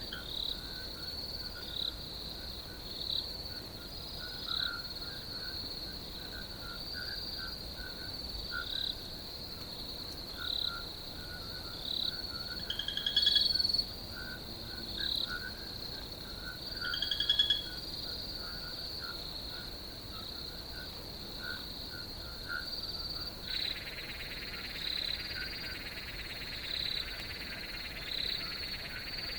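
Outdoor chorus of crickets and frogs: a steady high cricket trill with short frog calls repeating every second or two. Two louder pulsed calls come near the middle, and a steady hiss joins about three quarters of the way through.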